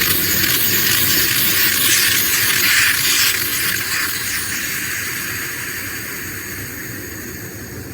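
Compressed air hissing out of the air hose line. Loud at first, then fading slowly over several seconds as the pressure bleeds down.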